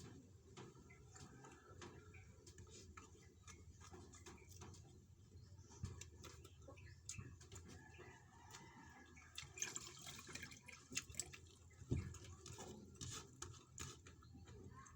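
Close-up eating sounds: wet chewing and mouth clicks with small ticks, busier in the second half, and one louder knock about twelve seconds in.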